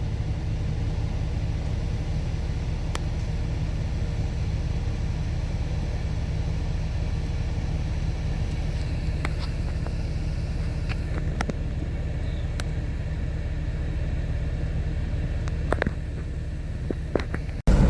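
Steady low rumble of a car driving, heard from inside the cabin: engine and tyre noise, with a few faint ticks. It gets a little quieter near the end and then breaks off abruptly.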